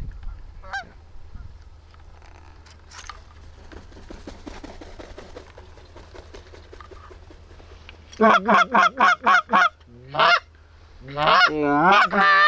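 Goose honking close by: after faint distant honks, a rapid string of about eight loud honks begins around eight seconds in, then a single honk and a fast warbling run of honks and clucks near the end.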